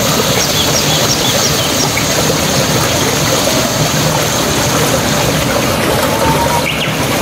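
Chopped tomatoes frying in hot oil with cumin seeds in a nonstick wok: a steady sizzle, with small pops in the first couple of seconds.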